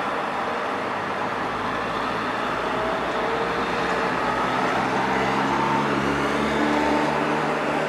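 Steady rushing noise of passing vehicles, with engine tones that rise and then hold through the second half.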